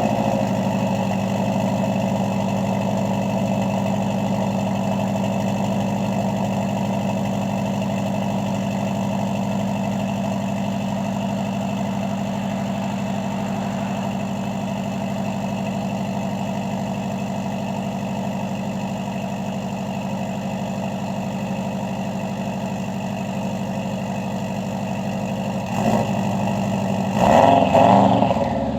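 Subaru WRX flat-four engine idling steadily through its exhaust. Near the end come a brief throttle blip and then a stronger rev.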